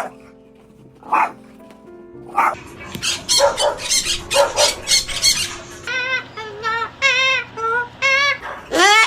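Dog barking: a few single barks about a second apart, then a rapid run of barks, followed by several wavering high-pitched calls and a rising call near the end.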